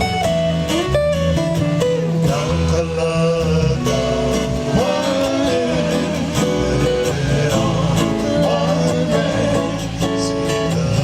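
Live music: strummed guitar over a steady bass line, with a singing voice carrying the melody.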